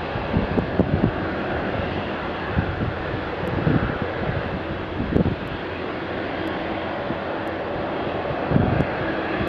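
Airliner engines running, a steady rush of noise, with irregular low thumps throughout.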